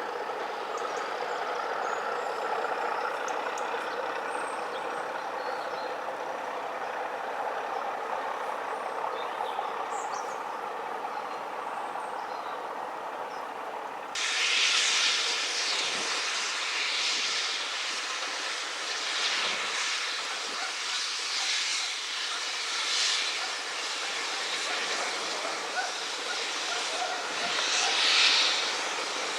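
Railway locomotive running steadily. About halfway through it cuts abruptly to a louder, hissing sound with uneven beats.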